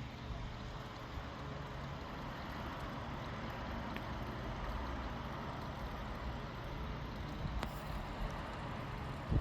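Steady outdoor background noise: a low rumble with an even hiss over it, with one faint click about three-quarters of the way through.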